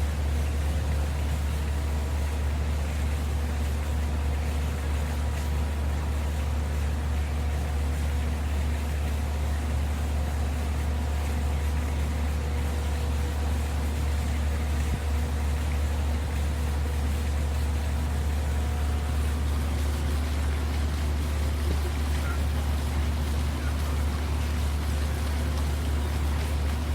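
Water fountain running steadily: a constant low hum under an even hiss of falling water.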